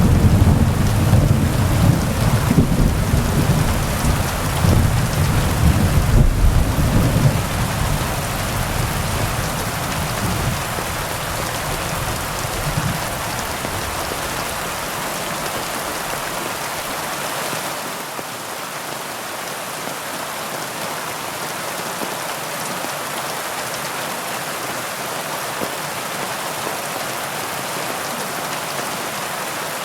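Heavy rain falling steadily on leaves, with a low rolling rumble of thunder that fades away over the first half.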